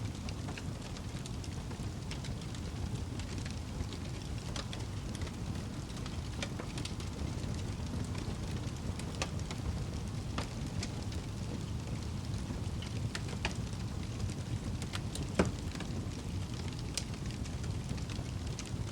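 Wood fire burning in a fireplace: a steady low rumble of flames with scattered crackles and pops from the logs, one louder pop about three-quarters of the way through.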